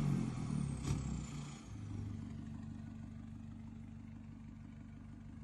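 Vehicle engine breathing through a rear-exit exhaust with no muffler, dropping from a rev back to a steady low idle over the first two seconds, with one short click about a second in.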